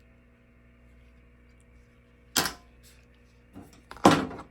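Short, sharp handling noises of painting supplies set down or moved on a tabletop: one knock a little after two seconds in, a faint one later, and a louder one near the end, over a quiet room hum.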